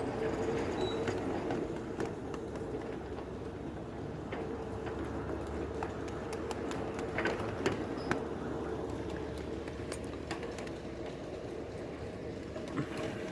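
Ride-on live-steam miniature train running along its track: a steady rumble with scattered sharp clicks, a few louder ones about halfway through.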